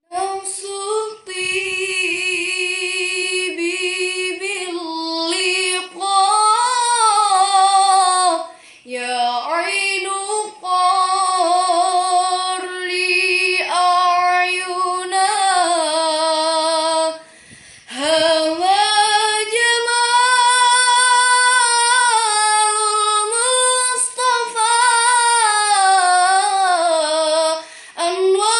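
A woman singing solo in long, drawn-out phrases, holding notes with a wide vibrato and sliding between pitches, with brief pauses for breath between phrases.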